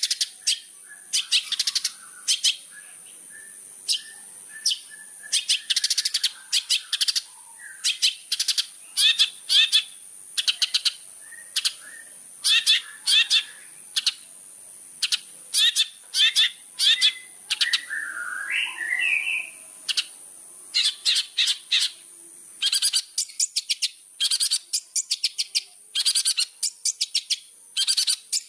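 Long-tailed shrike (cendet) in full song: fast, harsh chattering notes in short clusters, several a second, broken by brief pauses, with a lower warbling phrase about two-thirds of the way through. A steady high-pitched whine runs underneath.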